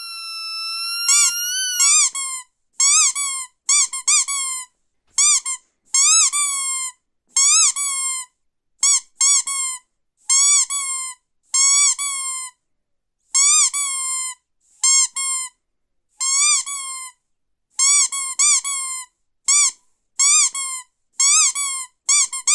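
Squeaky dog toy squeezed over and over: high squeaks in quick runs of two or three, about one run a second, with silence between.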